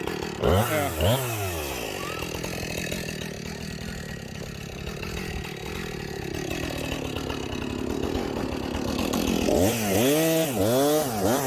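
Two-stroke chainsaw revved in a couple of quick blips, then running steadily, then revved up and down again about twice a second near the end.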